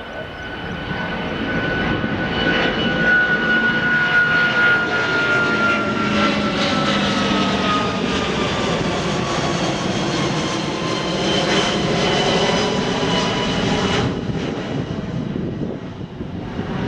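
Jet airliner's engines passing by, the noise building over the first few seconds. A high whine glides slowly down in pitch over a broad rush of engine noise, and the higher hiss dulls abruptly about three-quarters of the way through.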